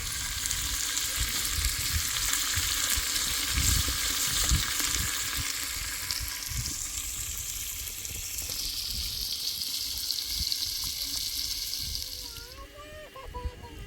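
A steady crackling hiss with low thuds beneath it, cutting off suddenly near the end.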